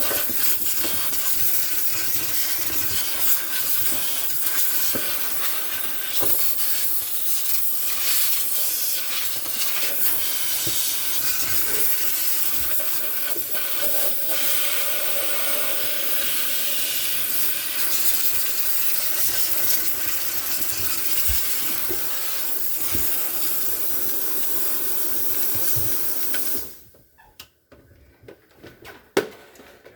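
Steamer blowing a jet of steam with a steady hiss and a few light knocks, cutting off suddenly near the end.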